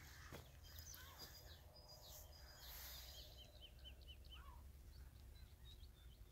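Faint small birds chirping: scattered short high calls, with a quick run of about six repeated notes about three seconds in, over a low steady rumble.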